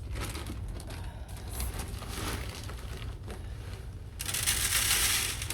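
Plastic bag of bird seed being handled: scattered light rustles and scrapes, then a louder rush of crinkling about four seconds in that lasts about a second.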